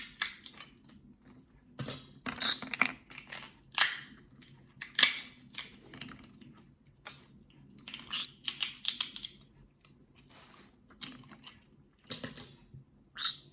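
Green cheek conure's beak picking and crunching at a walnut in its shell: irregular sharp clicks and short crackling clusters, with gaps between them.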